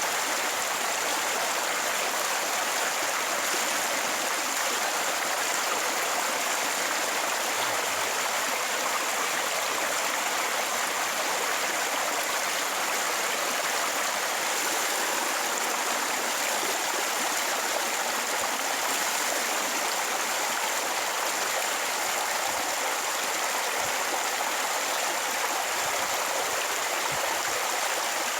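Steady, even rushing noise that does not change, with no breaks or distinct events.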